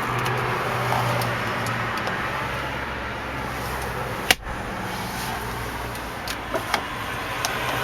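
Steady hum of a heater blower fan running inside an SUV cabin, with one sharp click about four seconds in and a few lighter clicks near the end as dashboard controls are worked.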